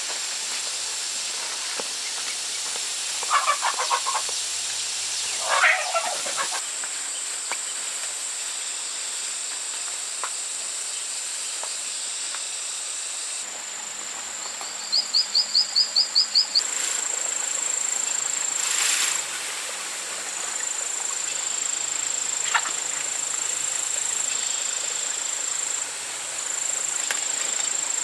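Outdoor forest ambience: a steady high-pitched insect drone, with a quick run of about ten chirps about halfway through and a few short rustling noises early on.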